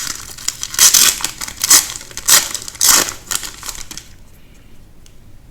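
Plastic wrapping on a pack of trading cards being torn open and crinkled by hand, a run of sharp crackling rustles that stops about four seconds in.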